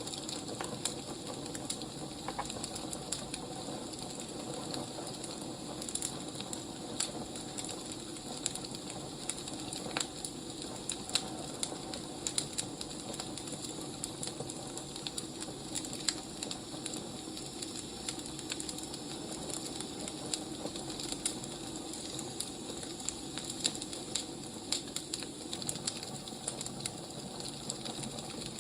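Burning firewood crackling: irregular sharp pops and snaps, several a second at times, over a steady low rush of the fire.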